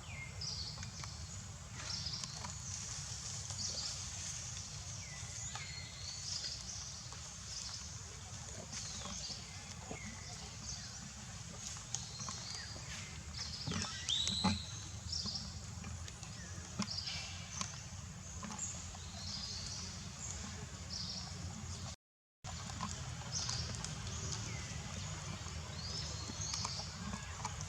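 Many short, high-pitched animal squeaks and chirps, scattered irregularly, over a steady low rumble.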